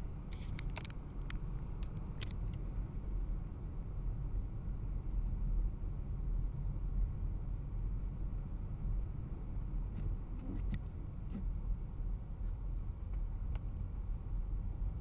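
Steady low rumble of a car driving, with a few sharp ticks in the first two seconds and again about ten seconds in.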